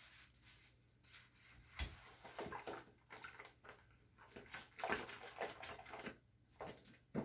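Wet scrubbing and wiping: irregular squishy, watery strokes, with a sharp knock about two seconds in and another at the end.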